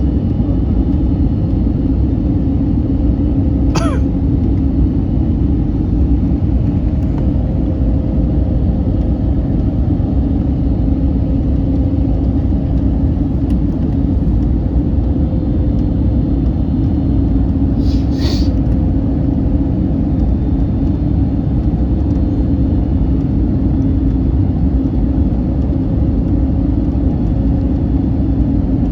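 Steady cabin rumble of an Airbus A321neo airliner in motion, with a steady hum over the deep noise. There are brief high-pitched sounds near the start, at about four seconds (falling in pitch) and at about eighteen seconds.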